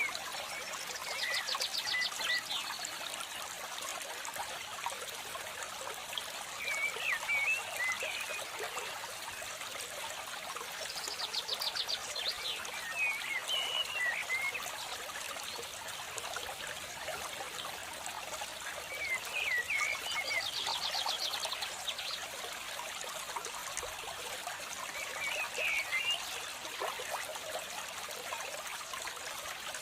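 Water trickling steadily, with birds chirping. A rapid high trill lasting about a second and a half comes back about every ten seconds, with shorter wavering chirps in between, typical of a looped nature-ambience track.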